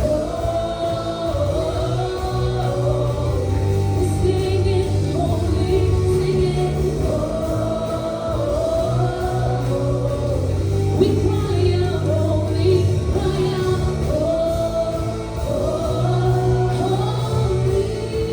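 Congregational worship music: a worship band and singers performing a slow worship song, voices holding long sung lines over steady bass and keys.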